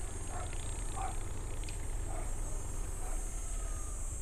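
Motorcycle engine running with a steady low rumble, under a constant high hiss.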